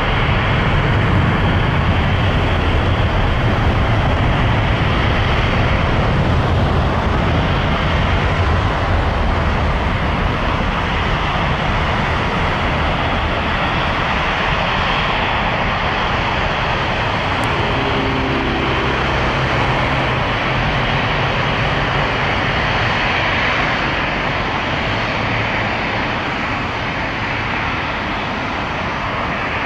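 Jet airliner engines running, a loud, even rush that eases slightly toward the end.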